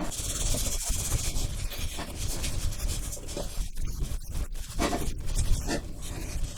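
Wet dishwashing cloth being rubbed hard over a kettle's surface by the spout, a continuous scrubbing with uneven strokes, using water only and no detergent.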